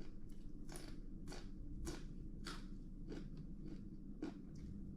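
A person chewing crunchy raw vegetables close to the microphone: a steady run of crisp crunches, about two a second.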